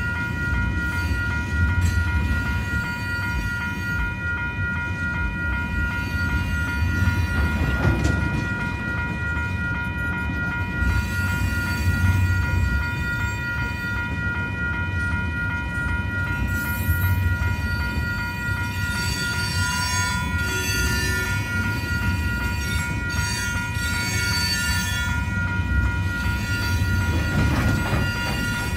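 Freight train tank cars rolling past: a steady low rumble of steel wheels on rail, swelling every few seconds as each set of wheels passes. Over it, a grade-crossing warning bell rings on without stopping.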